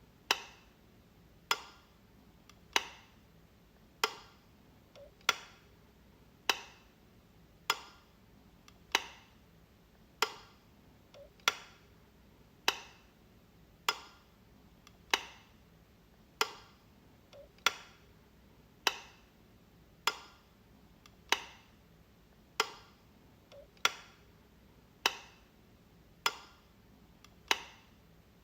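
Light switch clicking over and over, one sharp click about every second and a quarter.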